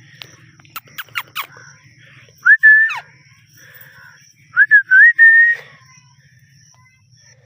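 Indian ringneck parakeet whistling: a few sharp chirps about a second in, then one loud whistle, then a quick run of short rising whistle notes a couple of seconds later.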